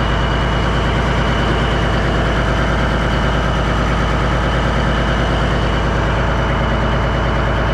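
1989 Kenworth K100E cabover's diesel engine idling steadily.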